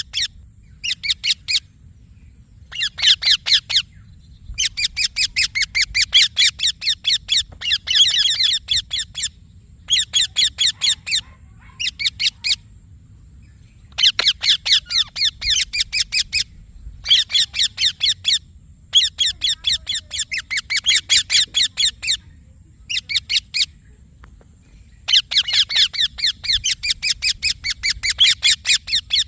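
Indian ringneck parakeet (rose-ringed parakeet) calling in bouts of rapid, repeated high-pitched chirps, several a second; each bout lasts one to three seconds, with short pauses between.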